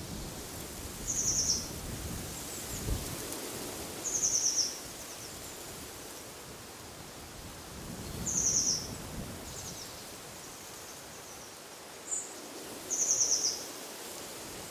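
A small songbird repeating a short, fast, high trill four times, about every four seconds, over a steady hiss of wind through trees.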